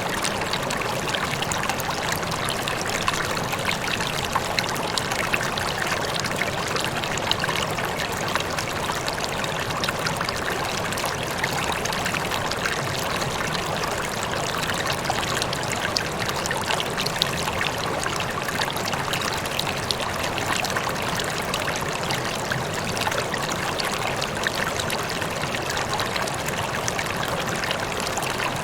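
Water rippling and trickling steadily, a continuous babble of small splashes.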